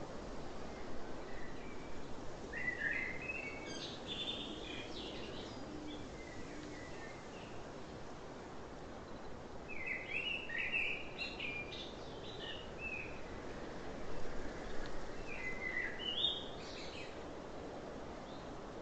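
Birds chirping in three short spells of song, each lasting two to three seconds, over a steady hiss of outdoor background noise.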